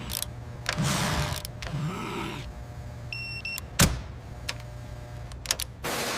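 Mechanical workshop sounds: several sharp clicks, two swelling whooshes about a second apart, a short electronic beep a little after three seconds, then a single loud knock just before four seconds.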